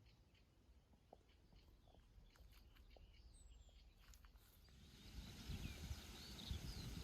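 Faint outdoor rain ambience: scattered drips and a few high bird chirps, with a steady hiss and low rumble swelling louder about five seconds in.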